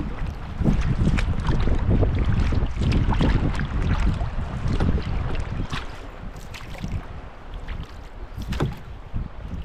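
Water splashing and dripping around a canoe being paddled, in short irregular splashes, over a low rumble of wind buffeting the microphone.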